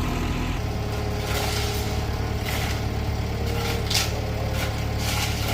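A bulldozer's diesel engine running steadily under work, with several short hisses over it from about a second in.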